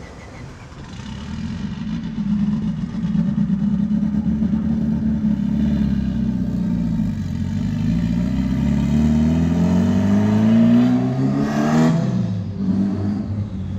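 A car engine accelerating past, its note climbing steadily as it gathers speed, then dropping sharply in pitch near the end.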